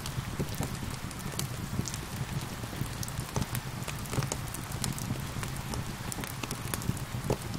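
Steady rain hiss mixed with a wood fire crackling, with sharp pops scattered irregularly throughout.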